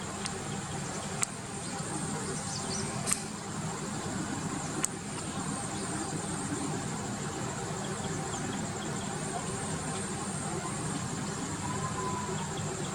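Steady rural outdoor ambience: a high, continuous insect trill, likely crickets, over a low hum, with faint scattered bird chirps. Three short sharp clicks come in the first five seconds.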